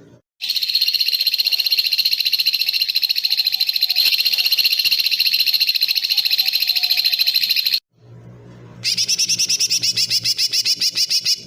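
Edited recording of an animal's rapid, buzzy trill of the kind used in masteran songbird-training tracks. One long trill holds steady for about seven seconds and cuts off suddenly. After a second's pause a second rapid trill follows, with a low hum beneath it, and stops abruptly near the end.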